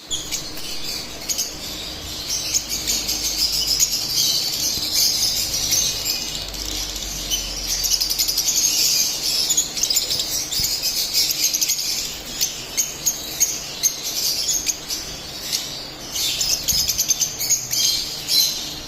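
Lovebirds chirping: a continuous high-pitched chatter of quick chirps, turning into sharper, more separate chirps near the end.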